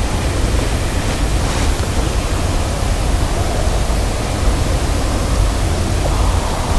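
Wind buffeting the microphone: a steady rushing hiss with a heavy, unsteady low rumble.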